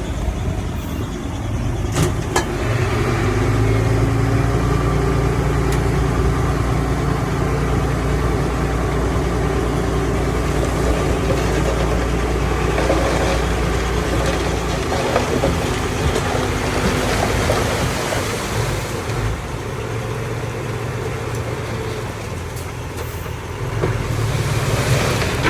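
Heavy diesel earth-moving machinery running, its engine note strong and steady for the first half, then easing off and building again near the end.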